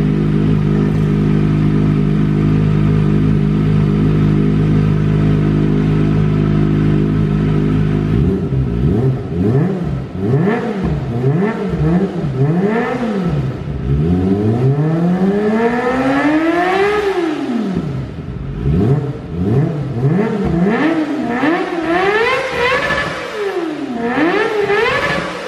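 Kawasaki ZX25R's 249 cc inline-four through an Akrapovic carbon long silencer, idling steadily, then revved repeatedly with the bike standing from about eight seconds in: a run of short quick blips, one longer rev up and back down, then more blips.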